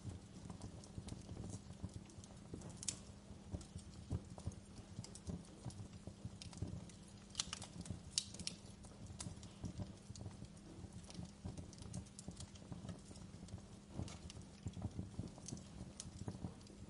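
Wood fire crackling steadily: a dense run of small low snaps and knocks, with a few sharper, brighter pops now and then, loudest a little past the middle.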